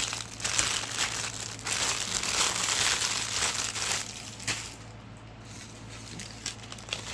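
Plastic packaging crinkling and crackling as it is handled, busy for the first four seconds or so, then lighter, scattered crackles.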